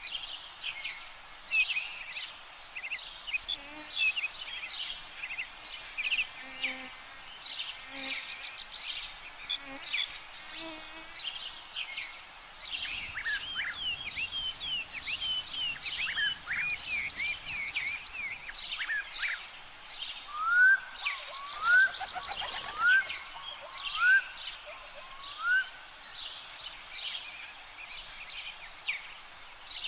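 Several songbirds calling and singing at once over a steady background hiss of outdoor ambience: dense short chirps throughout, a fast, very high trill about halfway through, then a run of five rising whistled notes.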